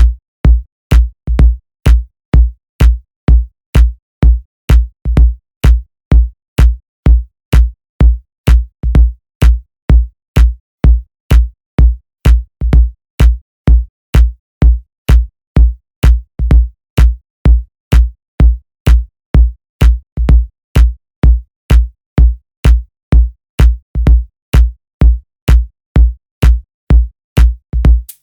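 Electronic dance music over a DJ's sound system, reduced to a bare four-on-the-floor kick drum, loud and steady at about two beats a second.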